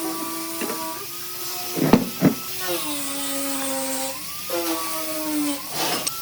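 Electric power tool's motor running with a steady whine. Its pitch drops and holds lower about halfway through, then rises again, as the tool bogs under load and recovers. Two sharp knocks come close together about two seconds in.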